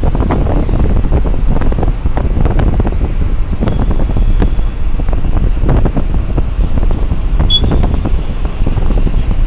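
Road traffic rumbling, with wind buffeting the microphone in loud gusts. A short high beep sounds about seven and a half seconds in.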